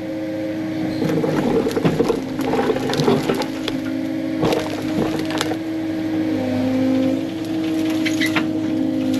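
Diesel engine of a piece of heavy equipment running steadily under load, its pitch dipping slightly about two-thirds of the way in, with brush and branches cracking and snapping in irregular bursts over it.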